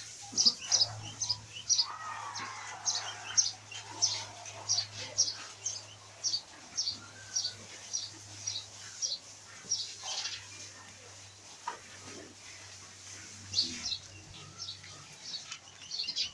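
Small birds chirping in a long series of short, high chirps, about two or three a second, over a steady low hum.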